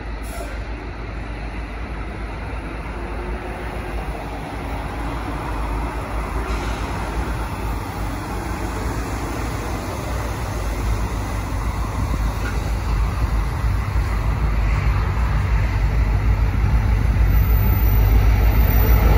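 Low rumble of road traffic and an approaching diesel freight train, growing gradually louder as the train's lead locomotives draw near.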